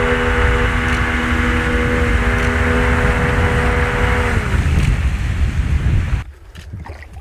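A motorboat's engine running at a steady high pitch over rumbling wind and water noise. About four and a half seconds in, the pitch drops away as it throttles down, and the noise cuts off abruptly near the end.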